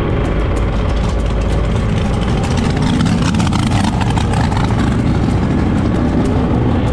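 Drag-racing car engines running with a loud, steady low rumble, with a couple of revs that rise and fall.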